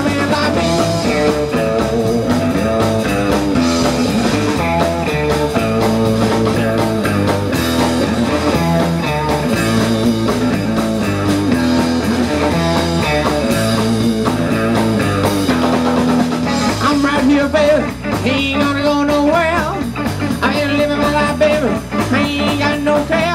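Live blues band playing an instrumental passage with electric guitar over bass and drums; bending lead guitar lines come in during the second half.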